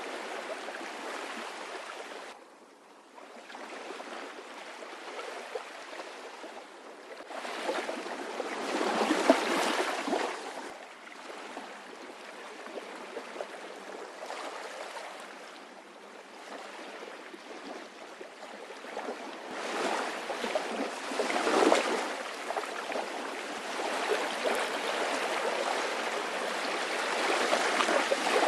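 Sea waves washing in a steady hiss of surf, swelling louder twice as waves break.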